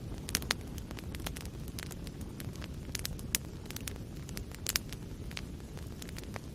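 Wood fire burning in a fireplace: a steady low rumble of flames with frequent sharp crackles and pops from the burning wood, a few louder pops among them.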